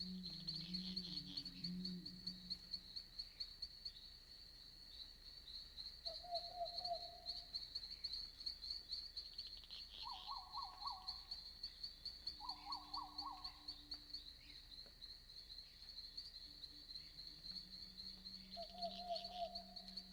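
Night forest ambience: insects chirping in a fast, steady pulse, with a low call near the start and again near the end, and short trilling calls four times in between.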